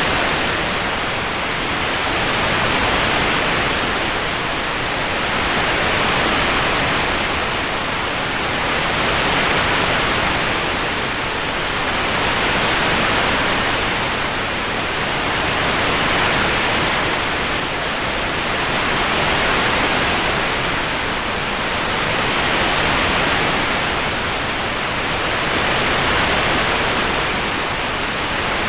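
Steady rain-sound ambience: an even hiss that swells gently and fades about every three and a half seconds.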